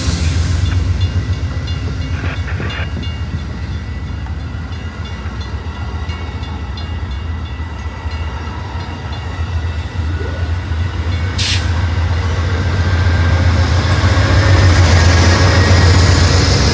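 Train passing close by: a steady heavy rumble of rolling rail cars with an even, rapid clicking of wheels over the rail, and a brief sharp hiss about eleven seconds in. The sound grows louder again near the end.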